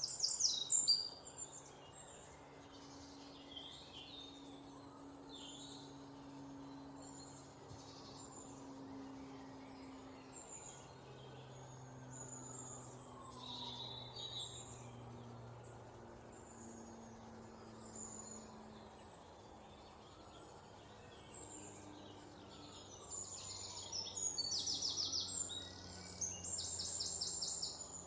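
Songbirds chirping and twittering, with a loud burst of chirps at the start. Near the end come several loud rapid trills of fast repeated high notes.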